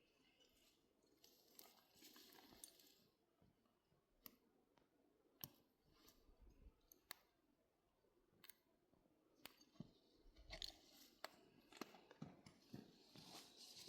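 Near silence, broken by faint, scattered clicks and small crunching crackles that grow a little busier near the end.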